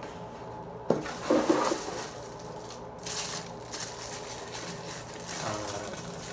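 Handling of unboxed water-heater parts and their plastic packaging: a sharp click about a second in, then crinkling and rustling at intervals.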